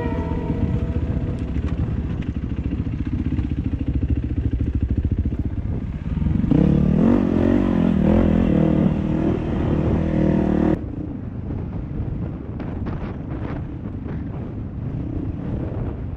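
Dirt bike engine running under way, louder for a few seconds in the middle and then dropping sharply to a quieter running sound about ten seconds in.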